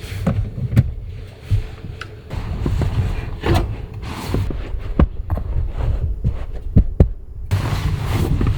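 Low, irregular rumbling buffeting of strong gusty wind, with scattered sharp clicks and taps.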